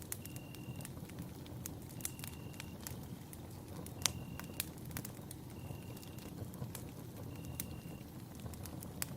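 Campfire burning, with irregular sharp crackles and pops over a steady low rush of flame; the loudest pop comes about four seconds in. A short, steady high note repeats about every two seconds.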